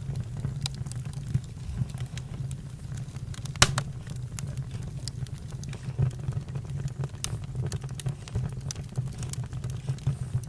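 Campfire crackling: a steady low rumble under irregular small snaps and pops, with one sharp louder pop about three and a half seconds in.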